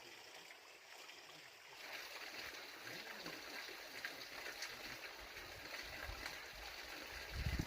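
Running water of a mountain stream, a steady rushing hiss that grows louder about two seconds in, with a few low thumps near the end.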